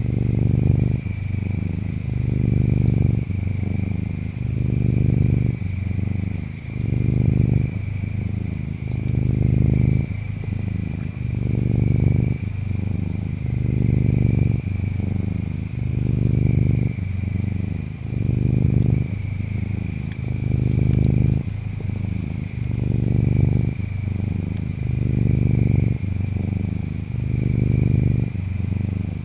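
Ginger tabby cat purring close up, a steady low purr that swells and eases about every two seconds with each breath in and out. Behind it, insects chirp: a thin, steady high trill, with short bursts of higher chirping every few seconds.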